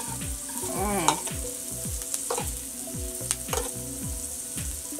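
Chopped green onions sizzling in melted butter on a hot electric cooker plate, with a utensil clicking and scraping against the plate as they are stirred.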